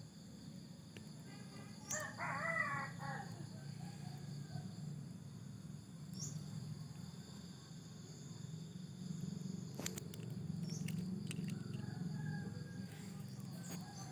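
A short animal call, just over a second long, about two seconds in, over a steady low hum and a constant high hiss. A few light clicks sound around ten seconds in.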